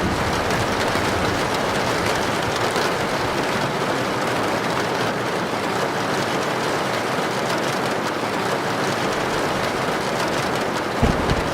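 Heavy rain falling steadily on a tin roof, with a low thunder rumble starting near the end.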